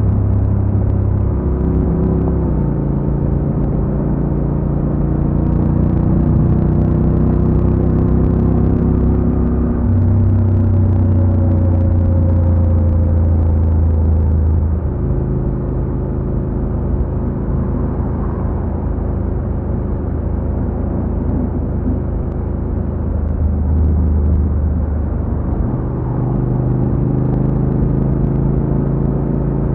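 Honda NC750X's parallel-twin engine running under way at steady revs. About halfway through the engine note drops and eases off, then steps back up near the end.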